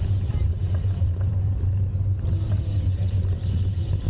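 Low, steady rumble of wind buffeting the camera microphone on a moving bicycle, with faint road noise and a few light ticks over it.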